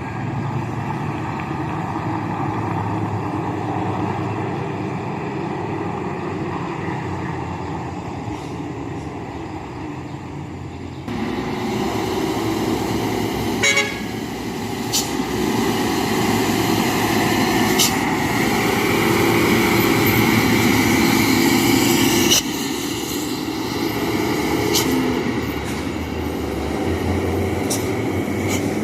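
Heavy diesel dump trucks loaded with stone running past on a downhill road. Through the middle a vehicle horn sounds, long and steady, for several seconds.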